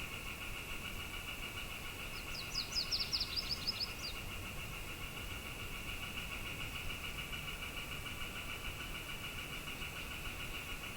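Outdoor ambience: a low, even rush of wind under a steady, finely pulsing high buzz, and about two seconds in a bird sings a quick run of sharp, high notes lasting under two seconds.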